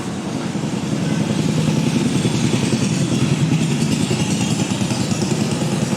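An engine running with a fast, even throb, getting louder about a second in and then holding steady.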